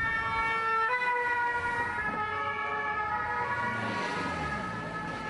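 Emergency vehicle's two-tone siren, alternating between a higher and a lower pitch and growing fainter in the last couple of seconds.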